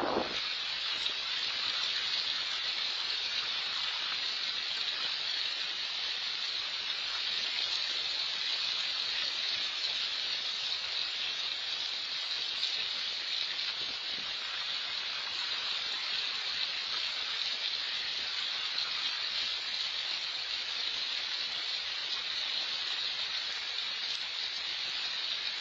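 Steady rain falling on a koi pond's water surface, an even hiss.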